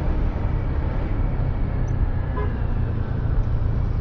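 Steady wind rush and motorcycle engine and road rumble picked up by a lavalier mic tucked under a balaclava inside a closed-visor helmet, while riding at around 40 km/h.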